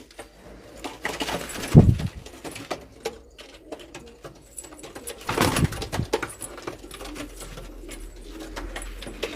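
Domestic pigeons cooing, with many scattered clicks and two louder rushes of noise, about two seconds and five and a half seconds in.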